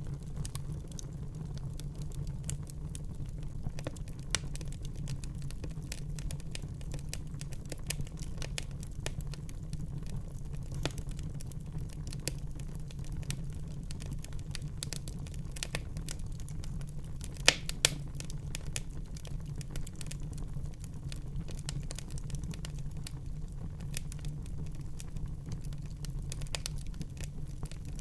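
Wood fire burning in a fireplace, crackling with frequent small snaps over a steady low rumble. Two louder pops come close together about two-thirds of the way through.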